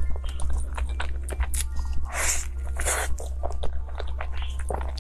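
Close-miked chewing of a mouthful of soft durian mille-crepe cake: many small wet clicks and lip smacks, with two louder noisy smacks a little past two and three seconds in.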